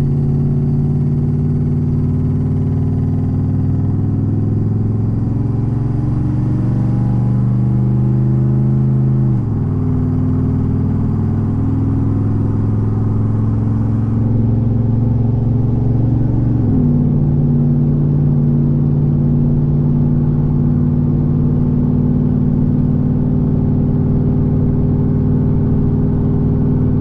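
2013 Roush F-150's V8 exhaust with the catalytic converters cut out, heard from inside the cab during a normal acceleration onto the highway. The engine note climbs steadily, drops with automatic upshifts about nine and seventeen seconds in, then holds steady at cruise.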